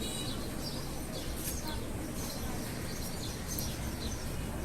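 Birds chirping: short high chirps, about two a second, over a steady low hum.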